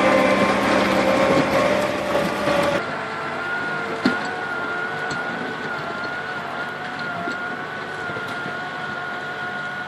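Engine and hydraulics of a forestry machine running steadily, with a high whine over the engine's drone. The sound changes abruptly about three seconds in, as if cut to another machine or another moment, and there is a single click a second later.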